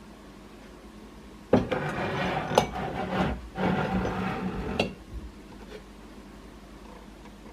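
Kitchen containers and jars handled and set down: a knock about a second and a half in, then some three seconds of rubbing and clattering, with sharp clicks in the middle and near the end.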